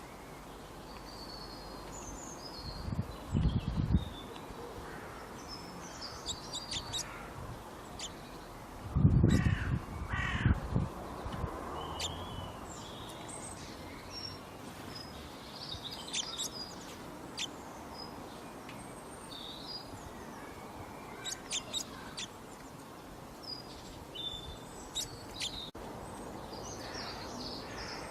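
Outdoor ambience of birds chirping and calling, many short high calls scattered throughout over a steady hiss. Loud low rumbles break in twice, about three seconds in and again around nine to eleven seconds.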